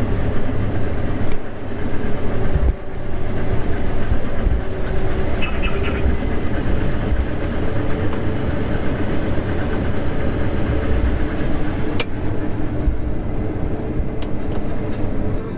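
Combine harvester running steadily, a continuous engine and machinery drone, with a single sharp click late on.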